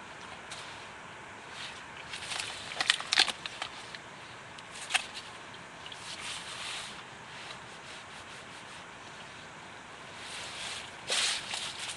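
Irregular scraping and crackling from a hiker on the move, in a few short clusters over a low hiss. The loudest cluster comes about three seconds in, and another near the end.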